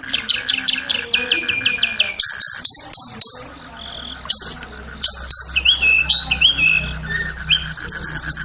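Tledekan (blue flycatcher) song: quick runs of sharp, high chirps and short downward-sweeping whistled notes in rapid trills. A faint low hum sits behind it from about halfway.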